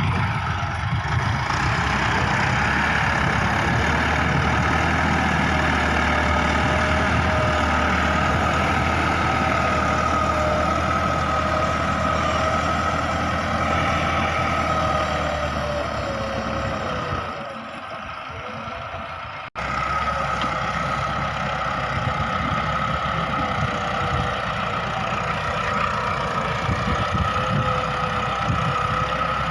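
Massey Ferguson 385 tractor's diesel engine running steadily, pulling a cultivator. The sound drops briefly and cuts off abruptly about 19 seconds in, then resumes.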